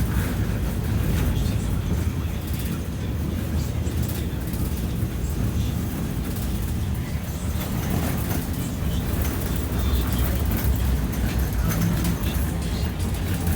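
BKM 60102 tram running along the line, a steady low rumble of the running gear and motors with wheels on the rails, heard from inside the car.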